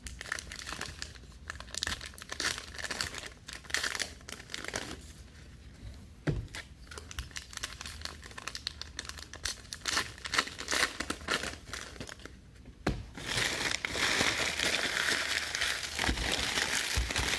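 Packaging being crinkled and torn by hand, scattered crackles at first, then a denser, continuous crinkling from about thirteen seconds in, typical of wrapping being stripped off trading-card boxes before a break.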